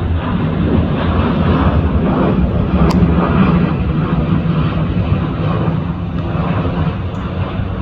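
Jet airliner engines running, a loud steady rumble that eases slightly near the end, with a brief click about three seconds in.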